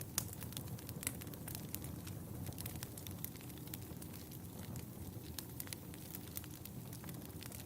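Wood fire in a fireplace crackling: a steady low rumble of flames with irregular sharp pops and snaps, the loudest just after the start and about a second in.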